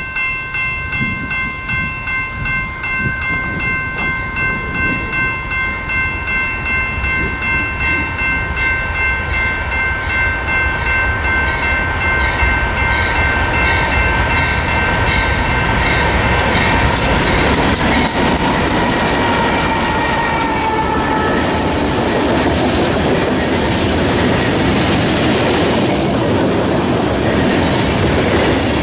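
Freight locomotive horn held as one long multi-note chord while a BNSF freight train approaches; the chord drops in pitch as the locomotive passes about 18 to 21 seconds in, then stops. After that, the locomotives' engines and the wheels of covered hopper cars rumble and clatter past on the rails.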